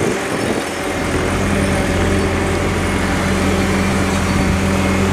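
Heavy vehicle engine running steadily at a concrete pour, getting louder about a second in and then holding a steady pitch.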